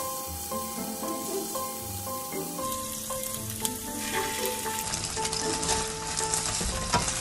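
Okra rolls wrapped in thin-sliced pork belly sizzling in a hot frying pan. The sizzle grows louder about four seconds in as teriyaki sauce is poured into the pan.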